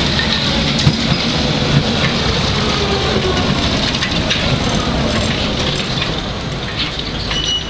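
UV-type tram running on its track: a steady, loud rumble of wheels and running gear, with a faint gliding whine and a few sharp clicks.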